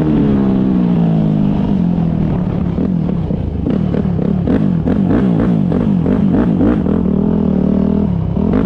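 Motocross bike engines revving, several at once. Their pitch slides down at first, then swings up and down again and again through the middle as the throttles are worked.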